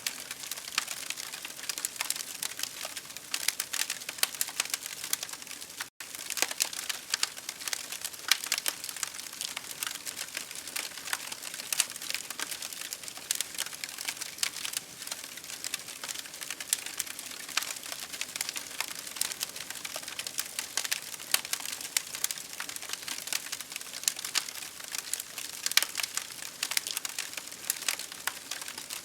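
Campfire crackling with many sharp pops and snaps over a steady rain hiss. The sound cuts out for an instant about six seconds in.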